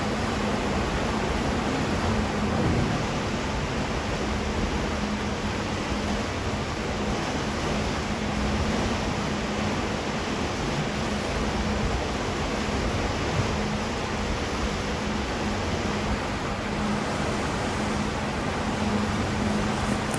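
Steady rushing background noise with a constant low hum, from a cruise ship under way.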